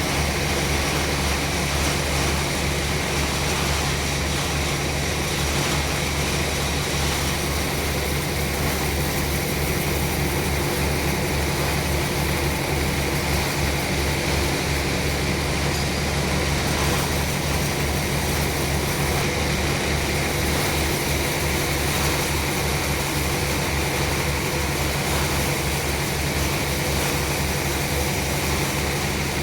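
Sawmill machinery running steadily: a constant engine-driven drone with low hum, holding the same level throughout.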